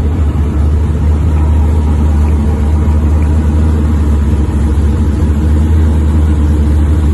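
Turbocharged LS V8 in a Ford Fairmont wagon idling, a steady deep rumble that holds level without revving.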